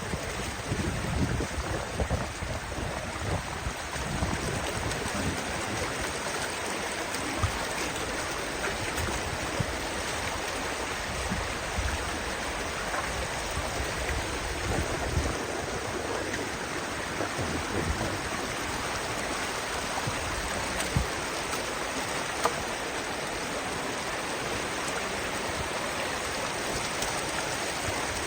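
Kanarra Creek rushing steadily through a narrow slot canyon. Low gusts of wind hit the microphone in the first few seconds, and there are a couple of faint knocks later on.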